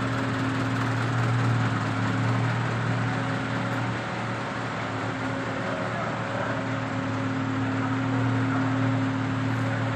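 Car engine running steadily at a low hum, with the noise of the car moving on the road; the hum eases a little midway and then picks up again.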